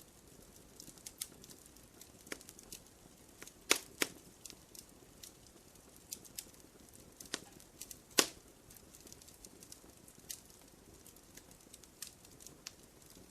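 Wood fire crackling: irregular sharp pops and snaps over a low hiss, with a few louder pops about four seconds in and again about eight seconds in.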